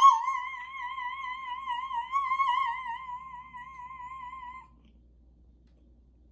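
A woman's soprano voice holding one high sung note with a wide, even vibrato, loudest at the start, then fading and stopping after about four and a half seconds.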